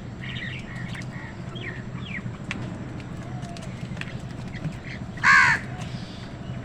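A crow gives one loud, harsh caw about five seconds in. Before it come several short, quieter chirps from smaller birds, all over a steady low hum.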